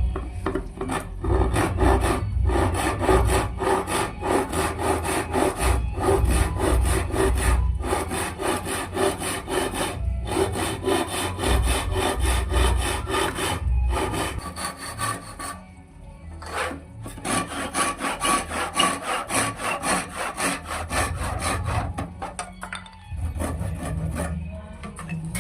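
Wood being cut by hand with a saw: steady back-and-forth strokes through the timber, broken by a few brief pauses.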